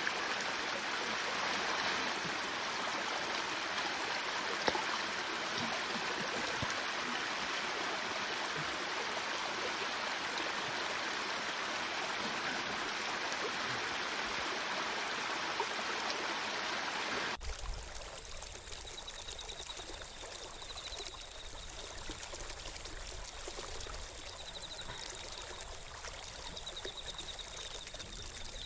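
Steady rushing water. It cuts off suddenly about seventeen seconds in, leaving a quieter background with a low rumble and a faint high trill that comes and goes.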